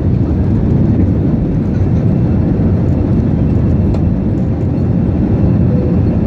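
Airplane during takeoff, its engines making a loud, steady low rumble.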